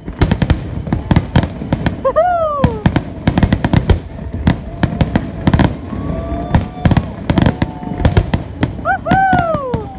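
A rapid barrage of aerial firework shells bursting, a dense run of sharp bangs and crackle typical of the show's finale. Two rising-then-falling cheering whoops come through, about two seconds in and near the end.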